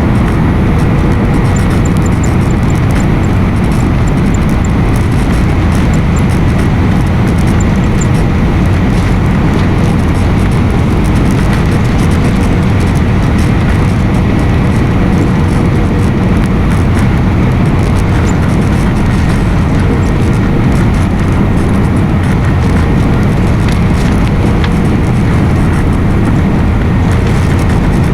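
Steady, loud airliner cabin noise: engine and airflow noise heard from inside the cabin, with faint steady whining tones over it.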